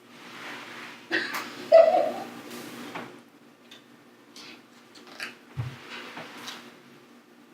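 Handling noise: rustling and light clicks and knocks, with a louder rustle and short squeak about two seconds in, over a faint steady hum.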